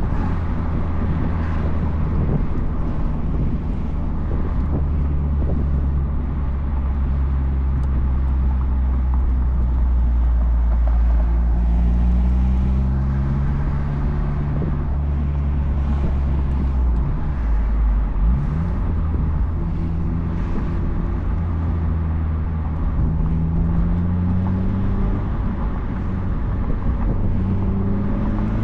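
Turbocharged 1.8-litre four-cylinder of a 2004 Mazdaspeed Miata running through a Flyin' Miata cat-back exhaust while driving with the top down. The engine note climbs in pitch several times as the car accelerates, with a quick dip and climb about two-thirds of the way through, over steady wind and road noise.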